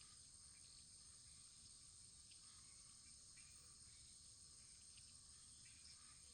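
Faint wood fire in a fireplace: a steady soft hiss with a few quiet, scattered crackles.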